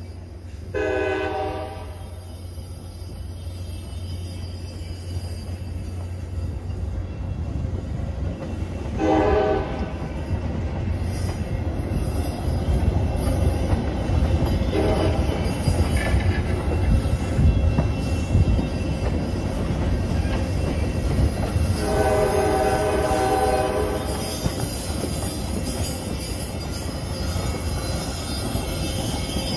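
Metra commuter train of bilevel passenger cars rolling past on steel wheels, with a steady rumble and some wheel squeal. The diesel locomotive's horn sounds four times: about a second in, about nine seconds in, a short blast near fifteen seconds, and a longer one around twenty-two seconds.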